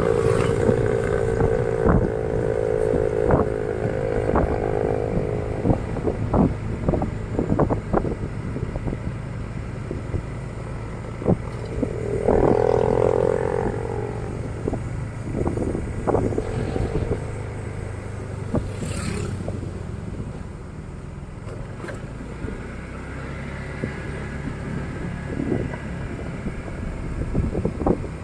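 Motorcycle engine running steadily at low speed, with frequent sharp knocks and clatter. A higher-pitched note sounds over it for the first few seconds and again about twelve seconds in.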